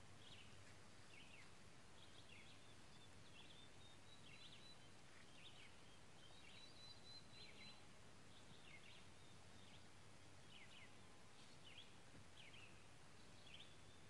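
Near silence with faint birds chirping: short, high, downward notes repeating one to two times a second.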